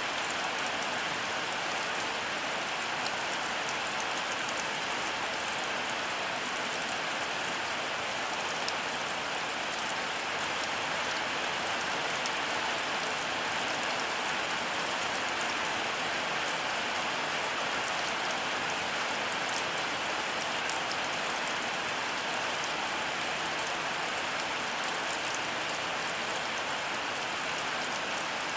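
Heavy rain falling steadily: a dense, even hiss with many fine drop ticks. No thunder.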